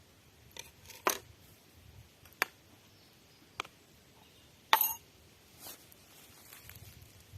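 A handful of sharp, irregular clicks and knocks, the loudest just before five seconds in.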